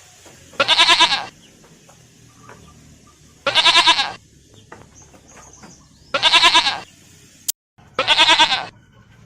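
Goat bleating four times, about two and a half seconds apart, each call a short quavering bleat.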